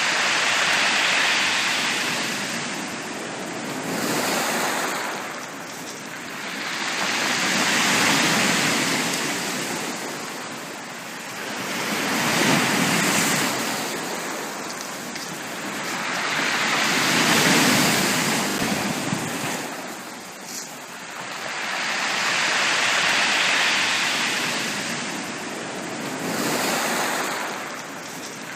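Sea waves breaking on a beach, a hiss of surf that swells and falls back about every five seconds.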